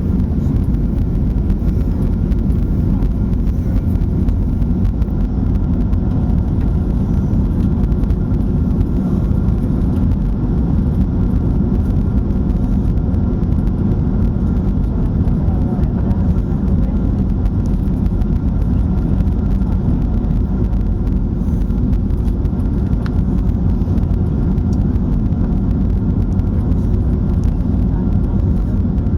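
Steady low rumble of an airliner's engines and airflow heard from inside the passenger cabin, even and unchanging throughout.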